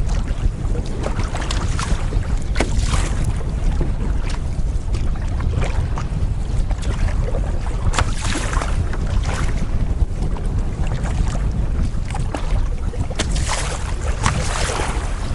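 Strong wind buffeting the microphone in a continuous low rumble, with irregular water splashes and slaps from a canoe moving through choppy water.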